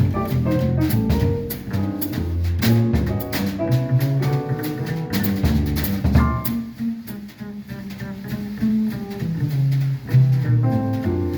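A jazz quartet playing live, with a drum kit keeping time under a pitched bass line and other instruments; the band eases off briefly about two-thirds of the way through.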